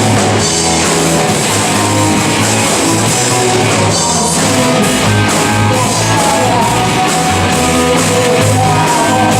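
Live rock band playing loud: distorted electric guitar, bass and drum kit, with a steady beat.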